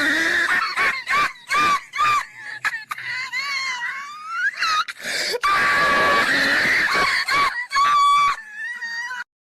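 A dog screaming in repeated high-pitched, wavering cries with short breaks between them. The cries cut off suddenly near the end.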